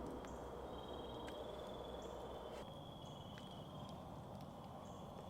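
Crickets trilling faintly and steadily at night, with another insect calling in short repeated buzzes, and a few sharp pops from a crackling campfire.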